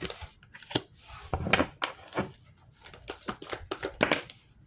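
Deck of tarot or oracle cards being shuffled and handled by hand: a run of irregular crisp clicks and slaps that stops shortly before the end.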